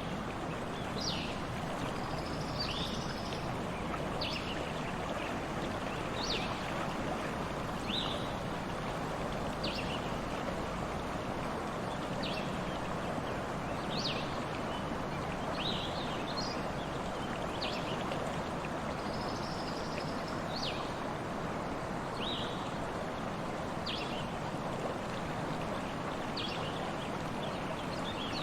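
Stream water flowing steadily, with birds chirping in short high notes that drop in pitch, about every one to two seconds.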